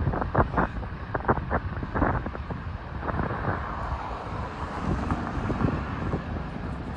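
Strong wind buffeting the microphone: a heavy low rumble with irregular gusty thumps for the first couple of seconds, settling into a steadier rushing noise.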